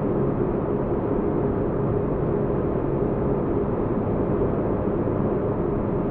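Steady, low spaceship-cabin ambience: an even rumbling hum with no breaks or events, the sound cut off above the mid-treble.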